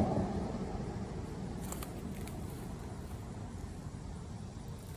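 A road vehicle passing, its low rumble fading away over the first two seconds, with a faint brief rustle about two seconds in.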